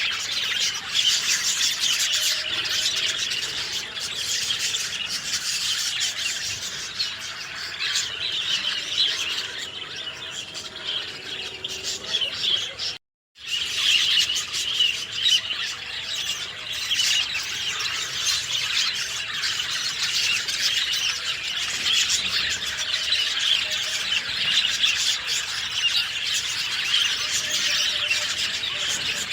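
Dense chorus of many small songbirds chirping and twittering together at a steady level. It cuts out completely for about half a second near the middle, then resumes just as before.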